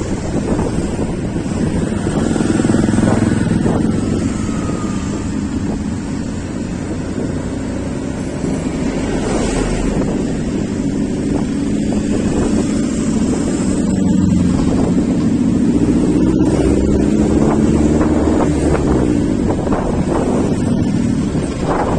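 Wind buffeting the microphone over the running engine of a moving road vehicle. The engine pitch slowly rises and falls as it speeds up and slows.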